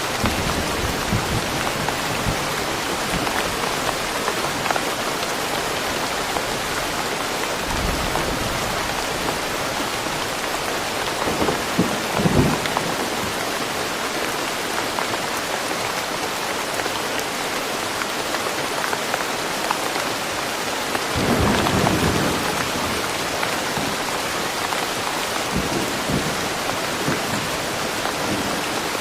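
Steady rain falling, with thunder rumbling twice: a short rumble a little before halfway, and a longer, louder one about three quarters through.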